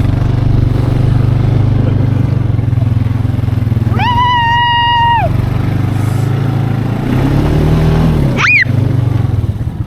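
Four-wheeler (ATV) engine running steadily at speed in the snow, picking up revs about seven seconds in. A child's long held yell comes in at about four seconds, and a short rising-and-falling shriek near the end.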